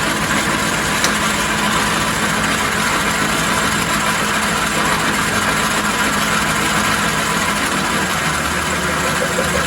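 1944 Logan 210 metal lathe running steadily on its three-phase motor, taking a cut on a backing plate with a freshly fitted cutting tip.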